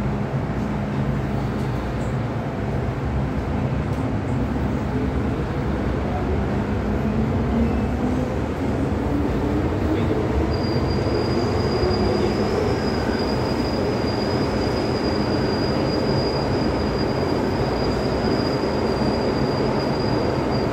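MTR M-Train (electric metro train) running, heard from inside the car: a steady rumble of wheels and motors, with a motor whine that rises in pitch over a few seconds about a third of the way in and then holds steady. About halfway through a thin, high, steady whine or squeal joins and continues.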